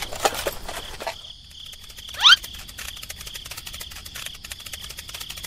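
Crickets chirping in a steady high trill, with a few clicks near the start. About two seconds in comes one short, sharply rising whistle, the loudest sound.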